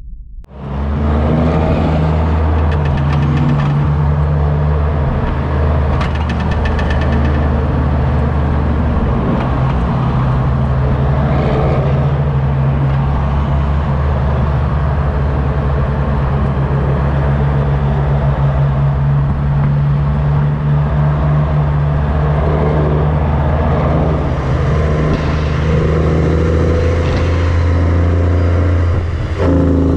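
Heavy diesel truck engine running steadily while the truck drives down the road, a loud low drone that hardly changes pitch.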